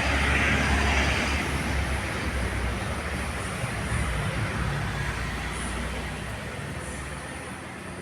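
Rumble and hiss of a passing vehicle, loudest at the start and slowly fading away.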